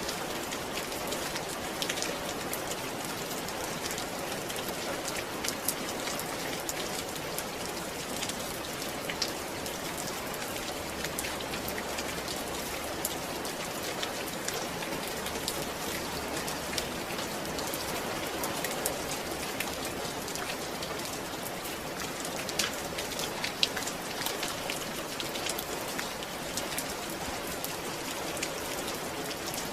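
Steady rain falling, an even hiss dotted with the ticks of individual drops hitting a surface.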